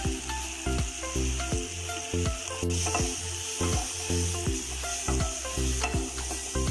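Chopped onions and vegetables sizzling in hot oil in a non-stick pan, stirred with a wooden spatula that scrapes and knocks against the pan, over background music with a steady beat.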